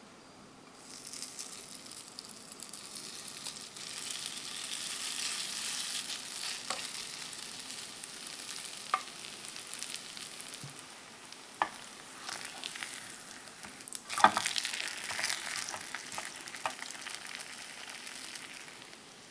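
Food sizzling in hot oil in a frying pan, starting about a second in and holding steady. A few sharp knocks, like a utensil against the pan, break in; the loudest comes near the three-quarter mark and is followed by louder sizzling.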